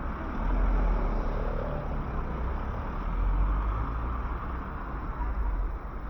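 City street traffic: a steady hum of passing cars, with a low rumble that swells twice as vehicles go by.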